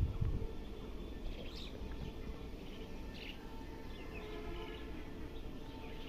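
Scattered short bird chirps over a steady low outdoor background noise, with a brief low rumble at the very start.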